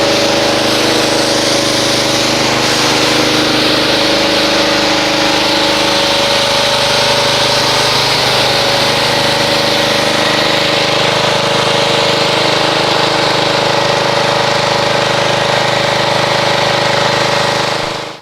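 Pressure washer running steadily, a motor hum under the hiss of the water jet, rinsing a foam pre-wash off a car; it shuts off near the end.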